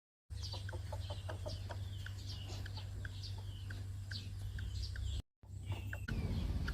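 Birds chirping: many short, high, falling chirps in quick succession over a steady low rumble. The sound cuts out briefly about five seconds in, then resumes.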